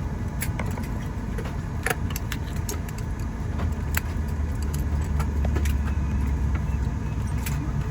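Steady low rumble inside an airliner cabin, swelling for a few seconds past the middle, with many small clicks and rattles scattered through it.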